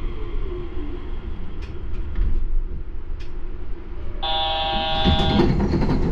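Yurikamome rubber-tyred automated train running, a steady low rumble in the car. About four seconds in, a steady electronic chime tone sounds for a little over a second.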